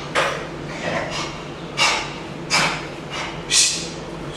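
Five short, breathy snorts or huffs, about a second apart, with no voiced tone.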